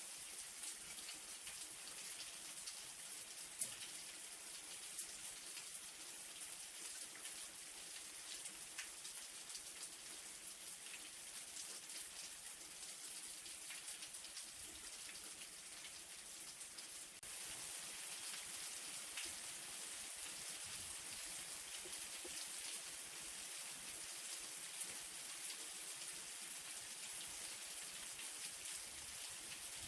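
Light rain falling steadily: an even hiss with many small drop ticks. It gets slightly louder just past the middle.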